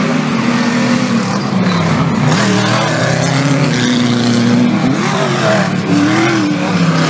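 Engines of several 4WD off-road race vehicles revving at once, their pitch rising and falling as they accelerate and ease off on the dirt course.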